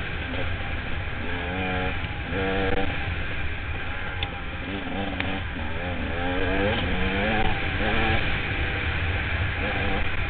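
Enduro dirt bike engine ridden along a trail, its pitch rising and falling again and again as the throttle is opened and closed, over a steady low rumble.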